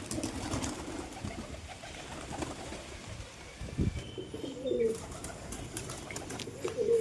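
Domestic pigeons cooing, a few short coos, with scattered clicks and a low thump in the loft.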